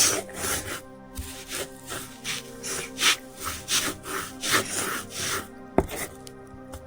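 Repeated rasping, scraping strokes, about two to three a second, like rubbing or sawing on wood, over steady background music. The strokes stop near the end, and a single sharp knock follows.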